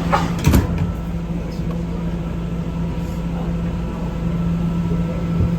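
Inside an R211 subway car under way: steady running noise with a constant low hum and a sharp knock about half a second in.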